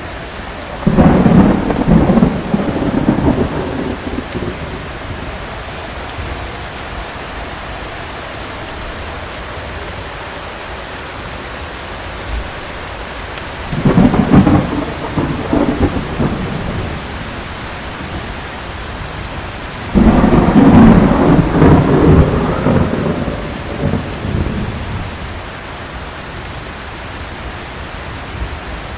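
Heavy rain falling steadily, with three rolls of thunder: one about a second in, one about halfway, and a longer one a few seconds later.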